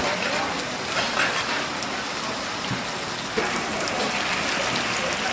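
Brisket yakisoba sizzling on a hot flat griddle: a steady frying hiss with small crackles.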